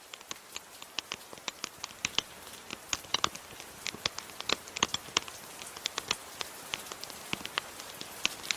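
Wood fire crackling with sharp, irregular pops, several a second, over a steady hiss of soft rain. The whole sound gradually grows louder as it fades in.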